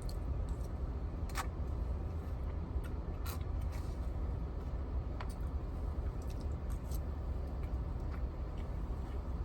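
Eating sounds during a mukbang: a few short, sharp clicks and smacks of utensils and chewing over a steady low rumble.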